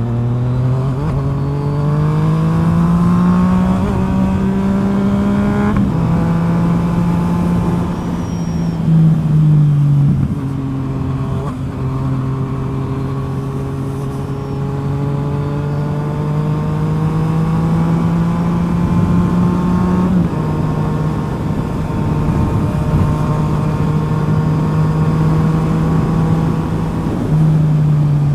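Yamaha FZ-09's three-cylinder engine through a full M4 exhaust while riding. The note climbs and drops sharply at several gear changes, with stretches of steady cruising in between, and falls away near the end.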